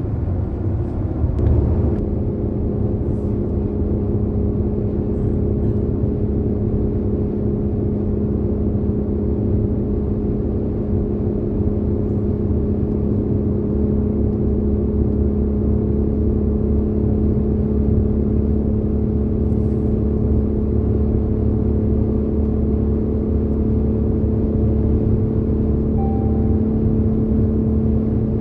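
Road and engine noise inside a car cruising on the highway: a steady low rumble, with a steady hum that sets in about a second and a half in.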